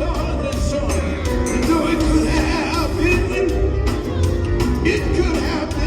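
Live gospel quartet music: a band with heavy bass and drums playing under singing voices.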